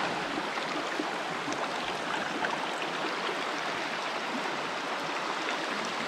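Steady rushing of a flowing creek, with faint small splashes.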